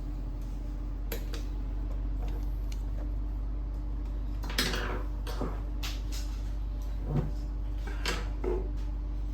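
Hands working on an inkjet printer: scattered short clicks and knocks of plastic and metal parts being handled, over a steady low hum.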